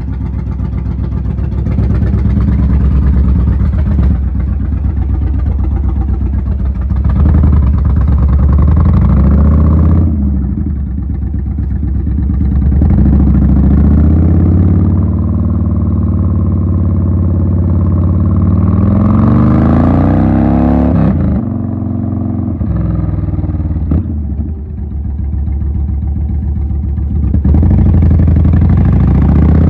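Yamaha Warrior 1700's air-cooled V-twin running loud through a Cobra Swept exhaust with the baffles removed, heard from the bike while riding. The pitch rises several times as the engine pulls through the gears, dropping back between pulls.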